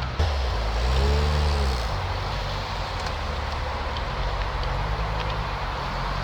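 A car engine blipped once, its pitch rising and falling about a second in, then settling into a steady low rumble.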